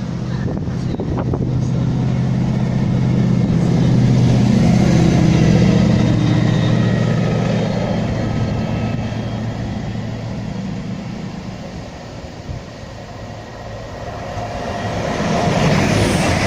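A train passing on the main line: a low, steady engine hum swells over several seconds and then fades away. Near the end a broader rushing noise rises.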